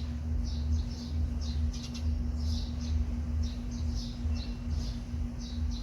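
Small birds chirping: many short, high chirps, several a second and unevenly spaced, over a steady low hum and rumble.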